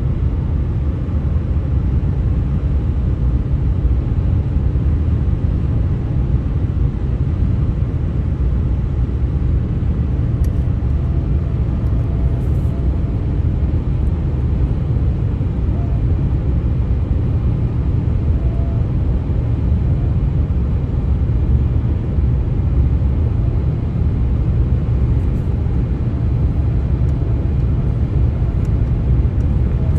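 Steady low rumble of traffic noise from the US-127 highway, unbroken throughout, with faint short hums now and then.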